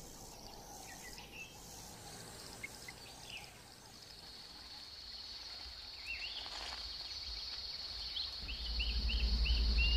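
Outdoor wildlife ambience: a steady, high insect trill comes in about halfway, with a run of short repeated bird chirps in the second half. A low rumble builds near the end.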